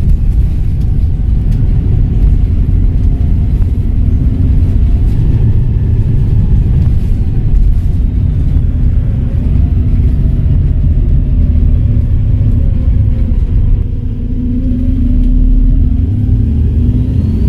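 Volvo B7RLE bus's turbodiesel engine and Voith automatic driveline running under way: a steady low rumble with faint whining tones that glide in pitch. The sound eases briefly about fourteen seconds in, then builds again as the bus pulls away.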